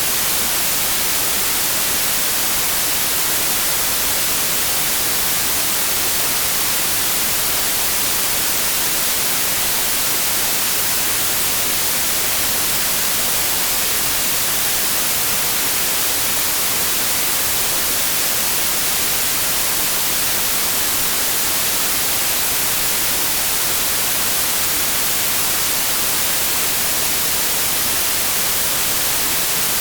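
Steady, unchanging white noise: an even, bright hiss strongest in the high frequencies, with no variation.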